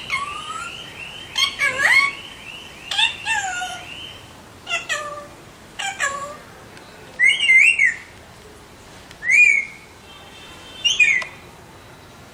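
Alexandrine parakeets calling: a string of short whistled calls with sliding pitch, about one every second. From about seven seconds in come three louder, harsher screeches a couple of seconds apart.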